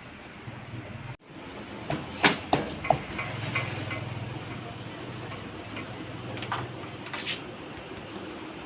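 A few sharp metallic clicks, then the single-cylinder engine of a TVS Apache RTR 160 running at a low steady idle with a fine even pulse, fresh from a timing-chain replacement meant to cure its tick-tick noise.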